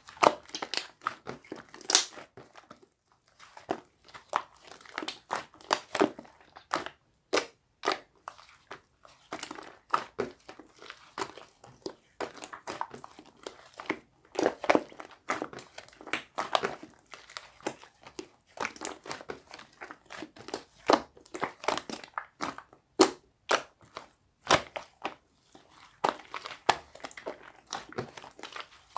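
Slime being squeezed and worked by hand, giving an irregular run of sharp clicking and popping sounds with brief pauses between handfuls.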